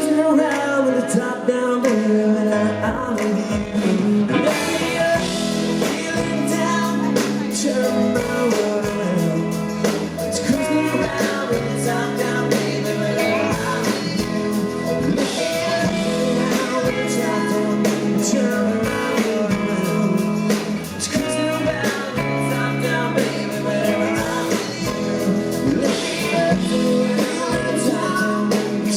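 Country rock band playing live: guitars over a steady beat, with singing.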